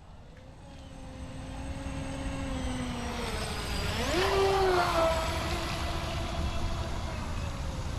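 Brushless electric motor of an RC speedboat whining as it runs across the water, growing louder, with its pitch rising sharply about four seconds in as the throttle is opened up, then holding steady.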